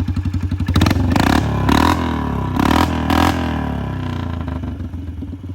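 Straight-piped four-wheeler engine idling with an even, loud exhaust pulse, revved in a few quick throttle blips about a second in, then dropping back to idle.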